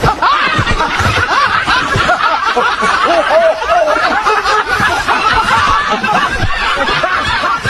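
Laughter: several voices snickering and chuckling at once, continuous throughout.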